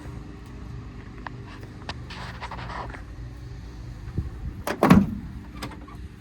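A car door being handled: small clicks and rattles, then a sharp latch click and a heavy thump about five seconds in, over a steady low hum.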